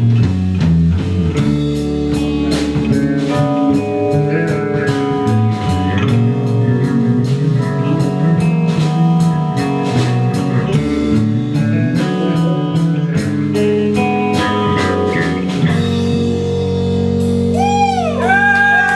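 A rock band playing live on electric guitar, bass and drum kit. Near the end the drums stop and a chord is held while sliding high pitches rise and fall over it.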